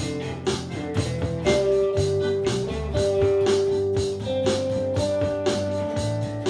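Instrumental band music: guitar with bass and a steady beat, a melody line holding long notes over it.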